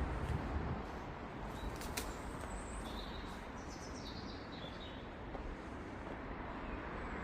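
Street ambience of steady distant traffic, with a low vehicle rumble that eases off about a second in. A small bird chirps several times in the middle.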